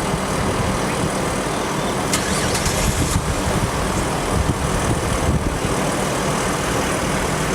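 A motor vehicle's engine running steadily at idle close by, with a few short clicks or rattles about two to three seconds in.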